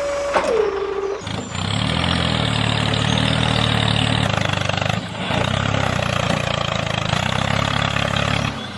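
A short falling tone, then a tractor engine running steadily at idle from about a second in, with a brief dip about halfway through.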